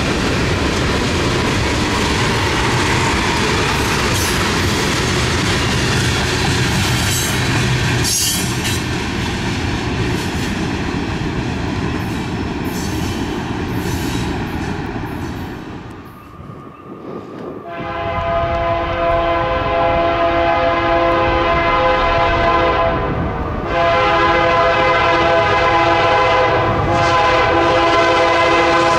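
A freight train of tank cars rolls past close by, its wheels clacking over the rail joints, then fades away. Then an approaching Canadian Pacific diesel locomotive sounds its multi-note air horn in long blasts for a grade crossing.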